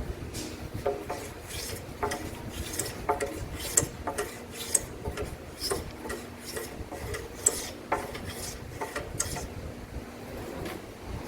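Hand tool working timber: short, irregular scraping strokes on wood, some with a brief ring.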